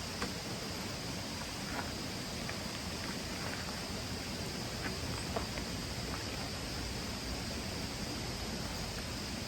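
Outdoor ambience: an even background hiss with a thin, steady, high insect drone and a few faint scattered ticks.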